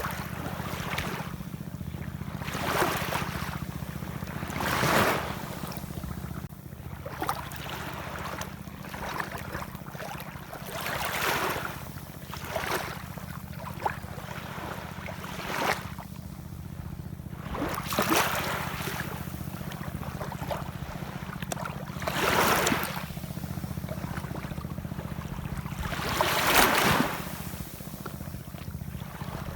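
Ocean waves washing in surges every few seconds, the loudest near the end, over a steady low rumble.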